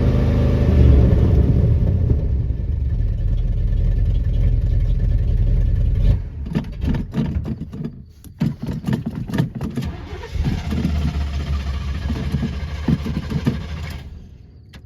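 The engine of a 1986 Chevy C30 ramp truck runs loudly and steadily, then about six seconds in it turns uneven and sputters for several seconds before dying out near the end. The engine is starved of fuel, which the owner takes for running out of gas.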